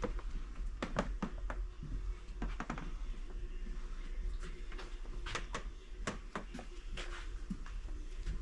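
Scattered light clicks and knocks at an irregular pace over a steady low hum.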